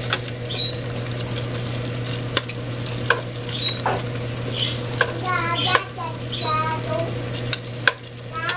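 Food sizzling on a barbecue grill, with sharp pops and crackles scattered through it over a steady low hum.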